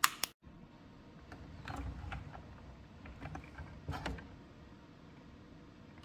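Hand-work on a stick vacuum cleaner's parts: a sharp click at the start, then scattered clicks, scrapes and knocks for a couple of seconds, settling to a faint hiss.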